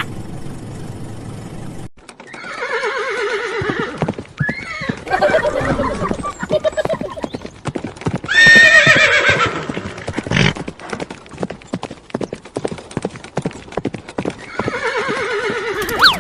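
Horse whinnying several times over a quick, steady clip-clop of hooves.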